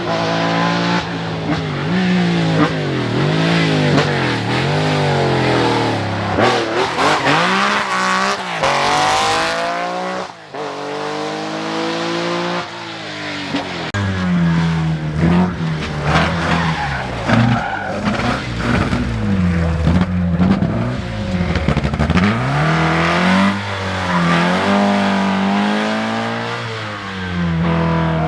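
Rally car engines revving hard, the pitch climbing and dropping again and again through gear changes and lifts, with a short dip about ten seconds in.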